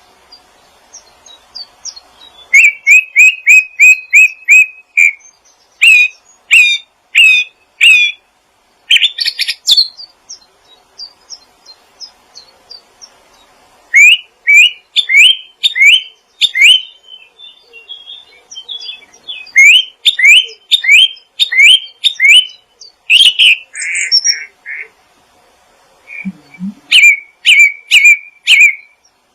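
Small songbird chirping in quick runs of short, sharp rising notes, several a second, with pauses between the runs.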